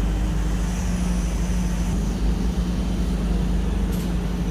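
Workshop car lift running as it lowers a car, a steady low hum with a faint click about four seconds in.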